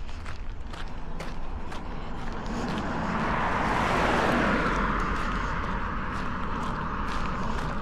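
A car passes on the road: its tyre and engine noise swells to a peak about four seconds in, then fades away. Footsteps on pavement tick along underneath.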